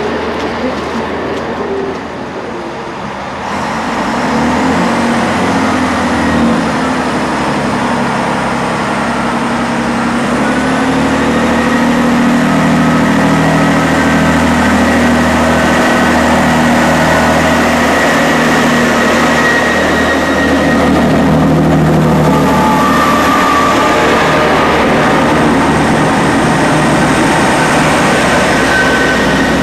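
Diesel train running, heard from inside the carriage: a steady rumble and engine note that dips briefly, then rises and grows louder about four seconds in, with a faint high whine over it.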